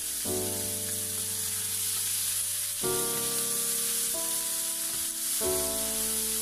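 Beef slices sizzling in hot oil in a frying pan as they are stir-fried with a wooden spatula, under background music of held chords that change every second or so.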